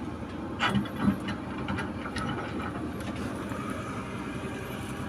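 A steady machine hum, with a few sharp metallic knocks and clicks about a second in and lighter ticks after.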